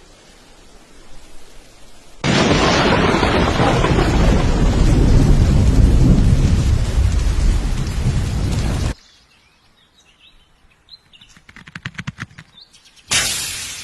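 Thunderstorm: loud, heavy rain with deep rumbling thunder that starts and stops abruptly, as a spliced clip does. After it come faint bird chirps, a quick run of clicks and a short sudden burst of noise that fades.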